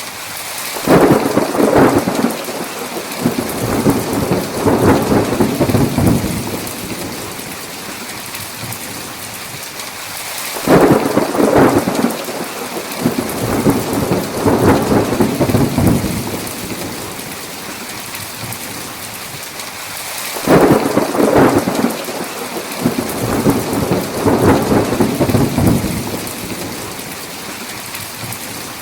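Steady heavy rain with thunder rolling three times, about ten seconds apart, each roll swelling loud and fading over several seconds.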